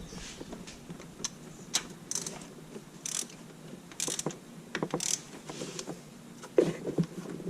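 Ratchet wrench being worked in short, irregular strokes, its pawl clicking, with scattered metal tool clicks and knocks.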